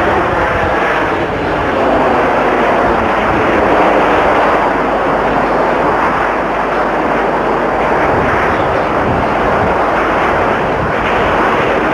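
A formation of British Aerospace Hawk jets with Adour turbofan engines flying past, a loud, steady jet roar that swells about four seconds in.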